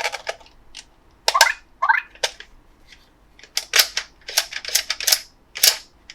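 An irregular series of sharp hard-plastic clicks and clacks, more than a dozen, from large plastic toy pieces being handled, with a brief squeak near two seconds in.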